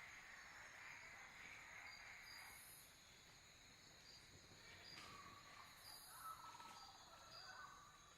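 Faint night nature ambience: insects trilling steadily with short repeated chirps, and a brief falling call, like a bird's, about five seconds in.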